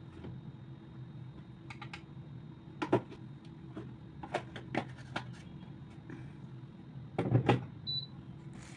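Household handling sounds: scattered light clicks and knocks of objects being moved, with a louder knock about three seconds in and a cluster of knocks near the end, over a steady low hum.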